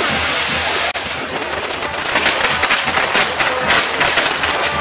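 Traditional Mexican castillo fireworks tower burning: a loud, steady hiss of spark fountains from its spinning fire wheel, with rapid crackling pops that thicken from about two seconds in.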